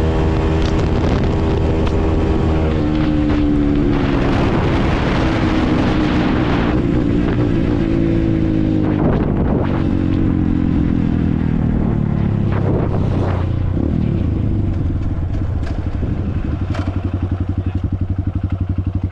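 Honda CRF150L's single-cylinder four-stroke engine with an open exhaust, held at high revs for a few seconds, then dropping steadily in pitch as the bike slows. Near the end it settles into a low, evenly pulsing idle.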